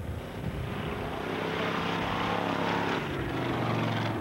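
Jeep engine pulling hard down a dirt drag strip, its pitch climbing, then dropping about three seconds in and holding steady.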